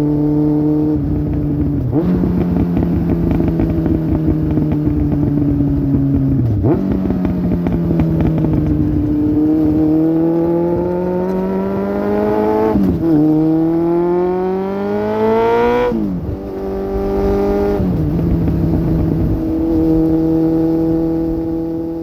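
2002 Suzuki GSX750F's inline-four engine running through a Black Widow aftermarket exhaust while riding at a relaxed pace. The note rises twice under throttle in the second half, dropping sharply after each rise as the bike shifts up a gear, then settles into a steady cruise.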